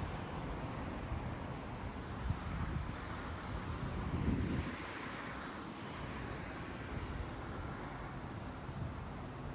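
Traffic noise from a busy road, with vehicles passing and a louder swell as one goes by about halfway through. Low gusts of wind rumble on the microphone.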